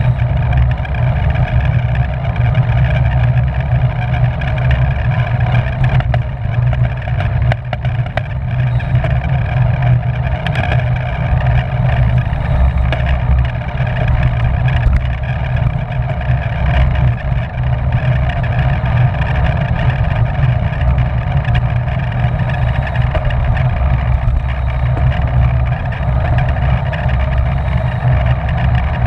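Steady rush and rumble of wind over the microphone of a racing cyclist's onboard camera, riding at speed.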